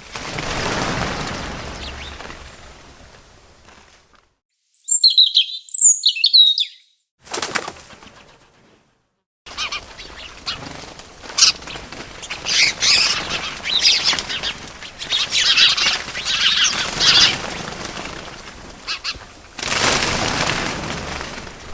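Bird sounds laid together: a few short, sharp high chirps, then a long stretch of fluttering wingbeats and twittering. A rush of noise swells up at the start and again near the end, with sudden silent gaps in between.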